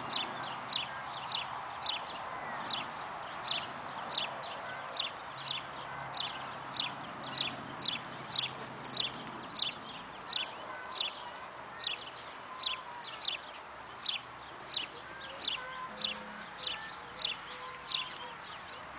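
A bird calling over and over: a high, short, falling chirp repeated evenly about one and a half times a second, over a steady background hiss.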